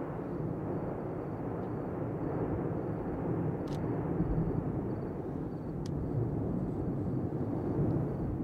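Steady low rumbling roar of the Cumbre Vieja volcano erupting, with a few faint ticks over it.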